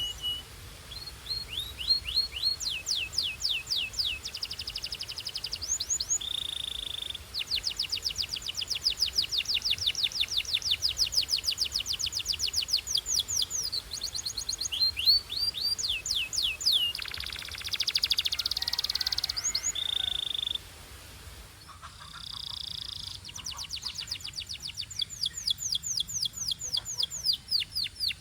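Domestic canary singing: fast trills of repeated rising notes, broken by short held whistles and a buzzy, rolling phrase about two-thirds through.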